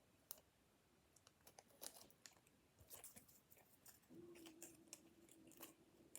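Faint scattered clicks and crinkles of paper and cardboard being handled during hand crafting, with a steady low hum coming in about four seconds in.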